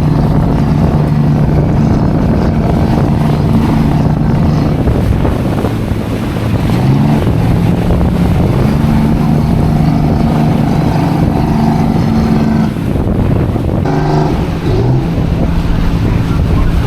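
Boat engine running steadily under load, its pitch briefly rising and settling twice as it is throttled, with wind buffeting the microphone. Typical of a boat straining to tow a grounded fishing boat off.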